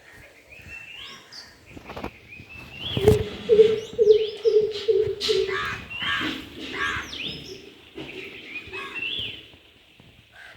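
Greater coucal giving its deep, booming 'coop-coop-coop' call, a run of low hoots at about two to three a second, starting about three seconds in and fading away later. Smaller birds chirp and whistle over it throughout, and there is a sharp click just before the hoots begin.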